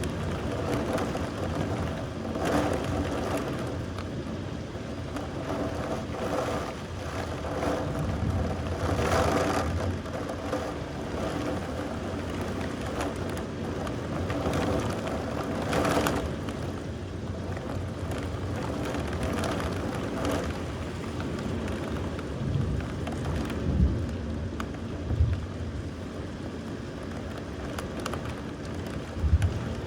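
Steady rain with swelling rumbles of thunder, and a few short low thuds near the end.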